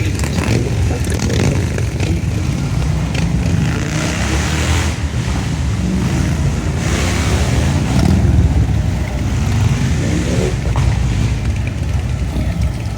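Low, steady rumble of car engines running, with hissy swells of noise about four and seven seconds in.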